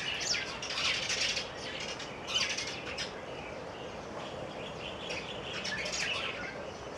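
Bird chirps in short clusters, one near the start, one a couple of seconds in and another near the end, over steady outdoor background noise.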